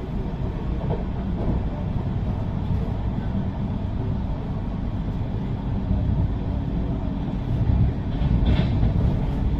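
Steady low rumble of a moving passenger train heard from inside the coach, running noise of wheels on rails, rising a little in loudness near the end.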